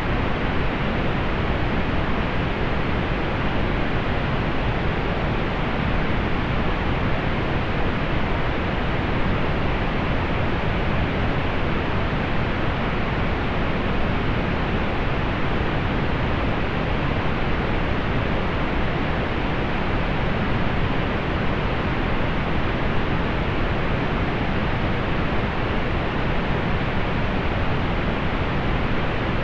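Steady pink noise: an even, featureless hiss weighted toward the low end, with no changes or events.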